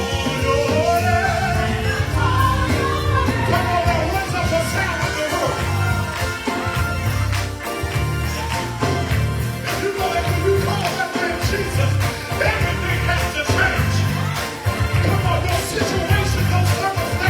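Choir singing a gospel Christmas song with a live band: a pulsing bass line and drums keep a steady beat under the voices.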